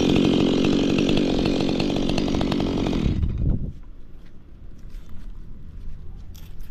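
Two-stroke chainsaw running at high revs, cutting wood, then dropping off sharply about three seconds in. Only a faint low hum and a few light clicks follow.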